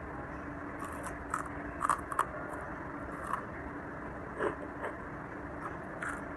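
Crisp crunching of someone biting and chewing crispy battered fried tempeh (mendoan), in scattered irregular bursts, over a steady faint hum.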